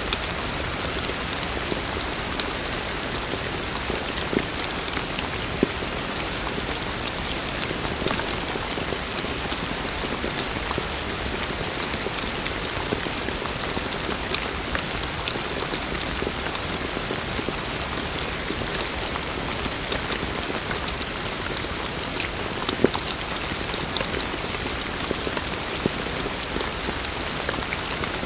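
Heavy rain falling steadily, a dense hiss with many individual drops ticking on surfaces and a few louder hits scattered through.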